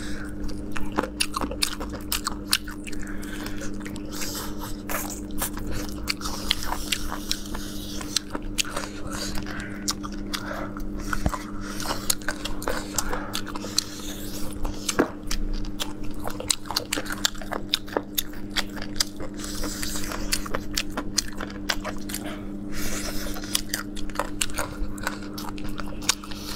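Close-up biting, crunching and chewing of crispy air-fried spicy cumin chicken bones, many sharp crunches in quick succession. A steady low hum runs underneath.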